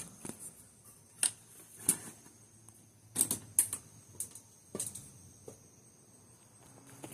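Ceiling fan motor of a Hampton Bay Farmington running on low speed with a faint steady hum. Irregular sharp clicks sound through it.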